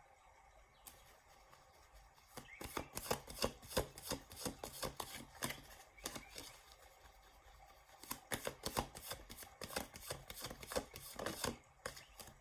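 Tarot cards being shuffled by hand: quick runs of light card clicks and flicks in two spells, starting about two seconds in and again about eight seconds in.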